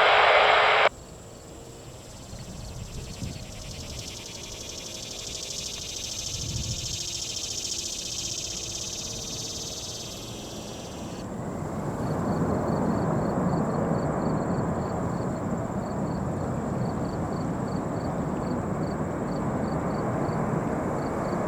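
Insects chirping in a quiet stretch, then about halfway through the steady rumble of a large cargo jet's engines builds up and holds as it comes in to land.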